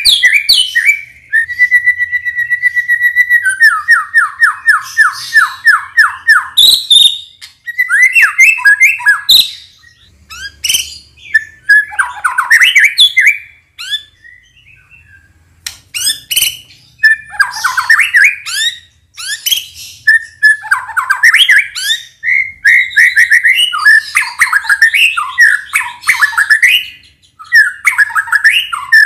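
White-rumped shama (murai batu) singing loud, varied phrases: a held whistle, then a fast even trill, then rapid warbled runs, with a short pause about halfway.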